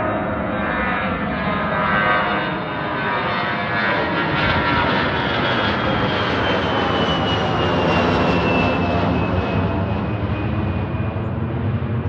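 Airplane engines passing low overhead: a loud, steady noise that swells toward the middle, with a high whine falling slowly in pitch as the plane goes by.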